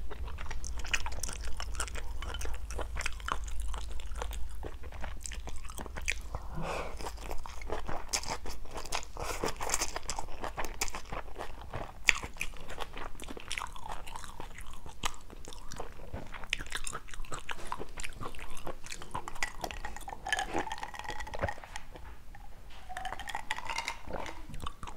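Close-miked chewing of a mouthful of stir-fried instant noodles with seafood: a dense, irregular run of small wet clicks and smacks, over a low steady hum.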